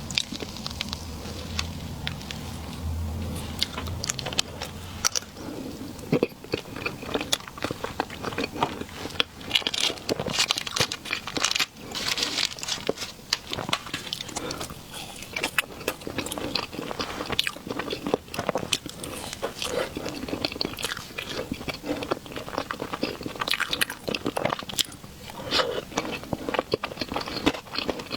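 Close-miked eating sounds: biting into and chewing a soft dessert cake, with a dense run of quick, wet mouth clicks and smacks.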